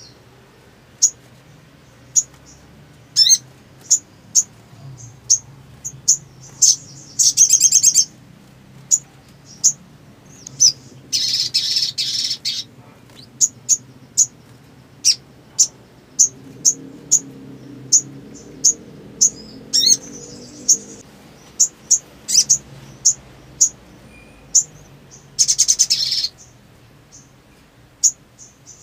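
Sogok ontong (little spiderhunter, a sunbird-family bird) calling: a run of sharp, high chips about one or two a second, broken by a few rapid trills of about a second each, one of them buzzier.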